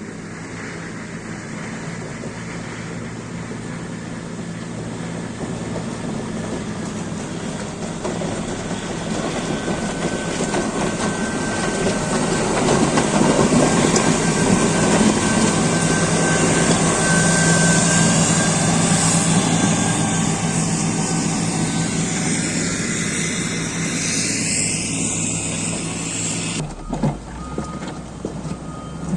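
Caterpillar 140GC motor grader's diesel engine working under load, growing steadily louder to a peak in the middle with a heavy grinding rush over the engine note. The sound drops away abruptly near the end.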